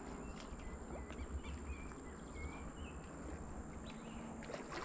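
Faint outdoor ambience: a few short bird chirps over a low wind rumble and a steady high hiss.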